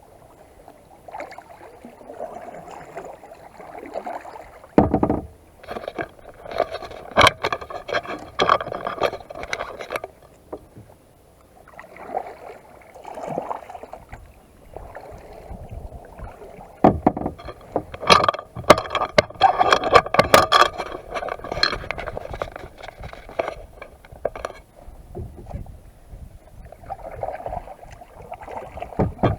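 Kayak paddling: paddle strokes splashing in the water and water slapping the hull, with sharp knocks. The sounds come in clusters separated by short lulls.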